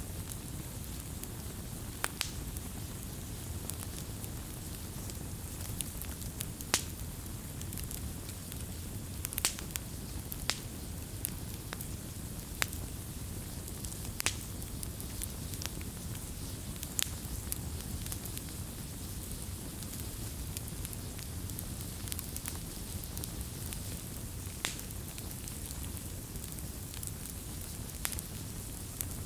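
Campfire burning: a steady low rumble of flames with irregular sharp crackles and pops of burning wood, one or two every second or so.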